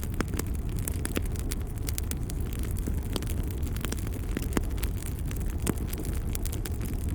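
Fire crackling in a fireplace: many irregular sharp pops and snaps over a steady low rumble.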